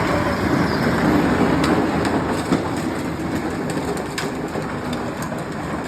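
1971 Chevy's engine running loud and rough just after firing up, a dense rumble with light ticks in it that eases off slightly over the seconds.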